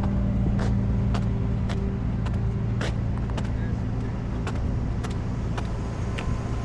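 Tow truck engine idling with a steady low hum, with scattered light clicks over it.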